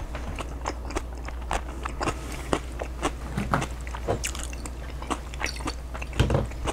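A man chewing a mouthful of chicken burrito bowl close to a clip-on microphone: irregular wet smacks and soft crunches. A steady low hum runs underneath.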